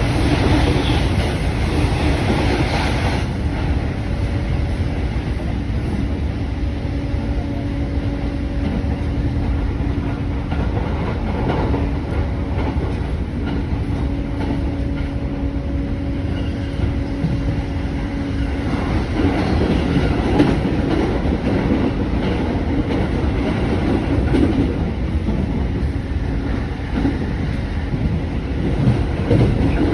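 Japanese electric commuter train running along the track: a continuous rumble of wheels on rail, with a steady motor hum through the middle that fades, leaving a rougher, clattering rumble near the end.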